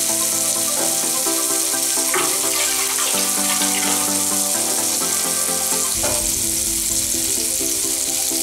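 Marinated chicken leg pieces frying in oil in a pan, a steady sizzle, with background music underneath.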